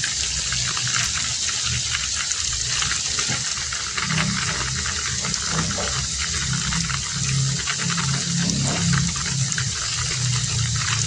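Heavy rain falling steadily, a dense hiss full of fine drop impacts. A low hum joins in about four seconds in and fades away near the end.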